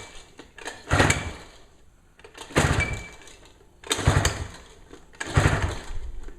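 Nissan 3.5 hp two-stroke outboard being pull-started: four quick pulls of the recoil starter, each cranking the engine over in a rapid burst of strokes, with the cylinder primed by hand with a little two-stroke fuel.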